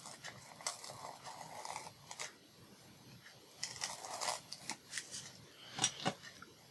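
Repositionable glue dots being applied to paper: faint scratchy rubbing and light clicks in two spells, about a second in and again around four seconds in, with a few sharp ticks near the end.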